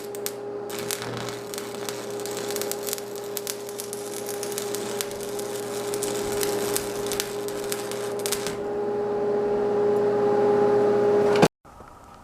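Electric welder arc welding steel, the arc crackling and spitting irregularly over a steady electrical hum; the welder is set a little hot. The crackling stops about 8.5 s in, and the hum carries on until it cuts off abruptly near the end.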